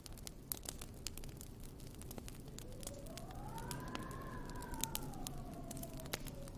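Wood fire crackling with sharp pops throughout. A little over two seconds in, a faint whistling tone rises, then slowly glides back down toward the end.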